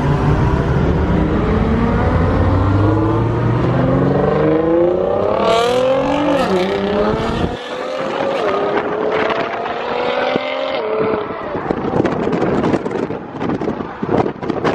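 Supercar engine accelerating hard, its pitch climbing through the revs for about six seconds. After that it drops and climbs again at each gear change, about 6.5, 8.5 and 10.5 seconds in. Sharp crackling pops follow near the end.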